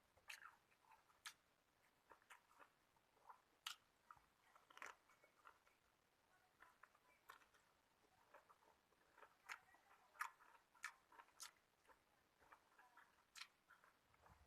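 A person chewing food close to the microphone: faint, irregular mouth clicks and soft crunches.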